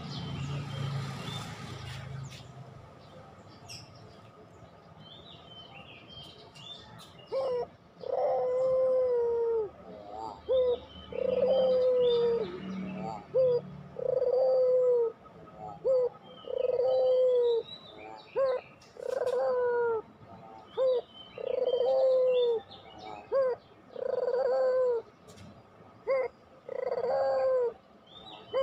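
Puter pelung, a Barbary (ringneck) dove, cooing over and over, starting about a quarter of the way in. Each call is a short note followed by a longer, slightly falling coo, repeated about every two seconds. Small birds chirp faintly behind it.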